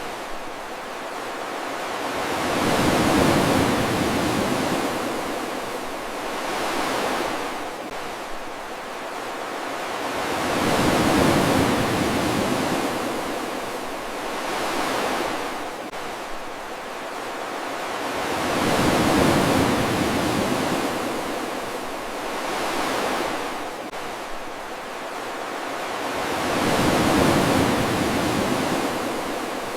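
Soft ocean waves surging and fading as a hiss of surf, with a louder surge about every eight seconds and a smaller one in between.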